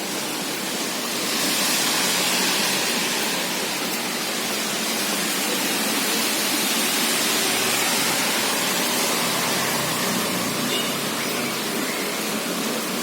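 Steady rain falling: an even hiss with no separate drops or other events standing out.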